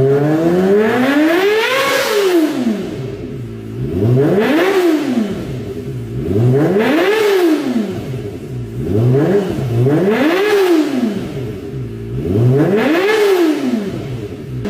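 Kawasaki ZX-25R's 250 cc inline-four revved through a genuine Akrapovic exhaust: five throttle blips, each rising smoothly to a high-pitched peak and falling back, about every two and a half to three seconds.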